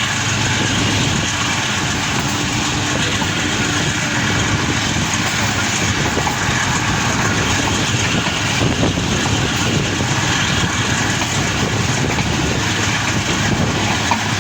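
Passenger train running, heard from on board: a steady, loud rush and rumble of wheels on track and carriage noise.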